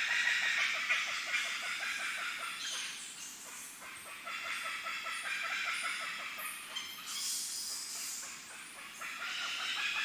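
Rainforest ambience: a dense chorus of insects and birds calling at once, with a rapid, even ticking running through it that fades near the end.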